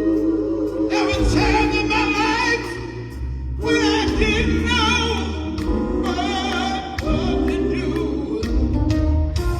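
Gospel group singing live, with a lead voice sliding and wavering between notes over backing voices and steady low instrumental notes, pausing briefly between phrases about three and a half seconds in.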